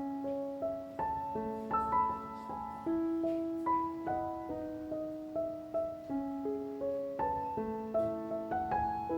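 Soft background piano music: a slow melody over held chords.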